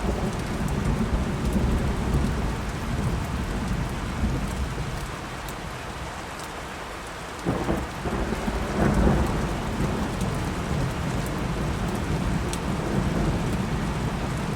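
Steady rain with rolling thunder: a rumble in the first few seconds eases off, then about halfway through a sharp thunderclap breaks in and rolls into a louder rumble.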